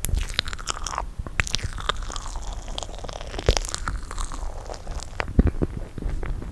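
Close-miked chewing of soft toasted marshmallow scooped from a bowl: many short, wet mouth clicks and smacks at irregular intervals.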